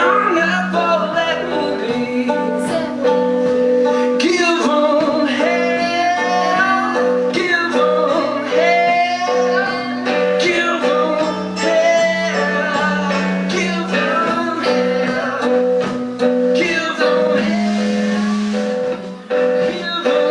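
Live band music: a singer over guitar, with sustained notes and a steady low drone.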